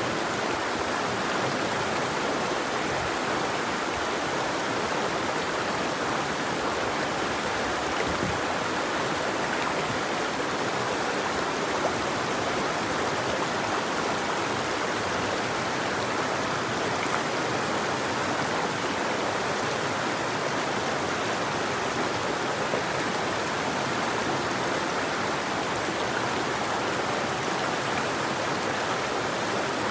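River water flowing, a steady, even rush of water.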